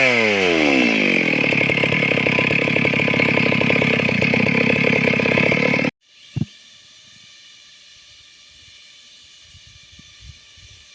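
Stihl MS 382 chainsaw's two-stroke engine dropping from full revs to idle at the start, idling steadily for about five seconds, then cutting off suddenly. After that there is only a low background with one short knock about half a second later.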